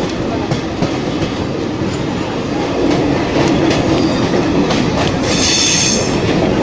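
Passenger train coaches running on the track, heard from an open doorway: a steady rumble with wheels clicking over the rails. It grows louder about three seconds in as a rock face runs close alongside, and a brief high wheel squeal comes about five seconds in.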